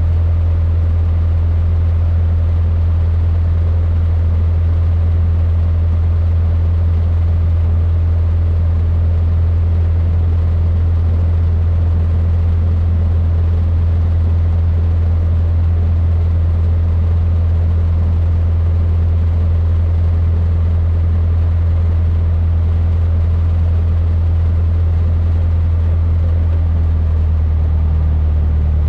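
Cessna 152's four-cylinder Lycoming O-235 engine and propeller droning steadily, heard inside the cockpit. The pitch drops slightly near the end, as the power is eased back.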